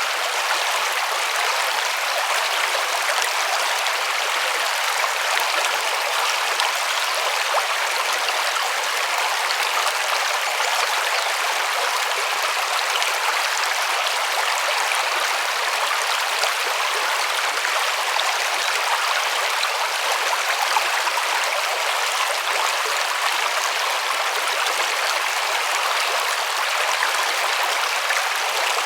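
Steady rush and babble of a river's flowing water, even and unbroken, with its sound sitting in the higher range and no low rumble.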